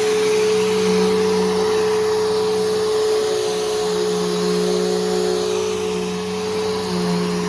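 Bissell Powerforce Helix Turbo bagless upright vacuum running steadily while vacuuming: a constant motor whine with a strong held tone over airflow rush, its level easing slightly about six seconds in. The machine is freshly refurbished with a new brushroll and belt.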